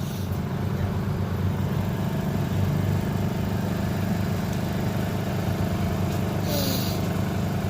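A vehicle engine idling steadily, with a short hiss about six and a half seconds in.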